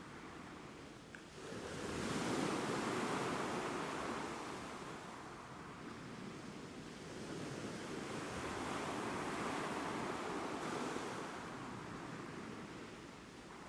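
Ocean surf washing ashore in slow swells: a wave builds and breaks about two seconds in and drains away, then a second swell rises and fades near the end.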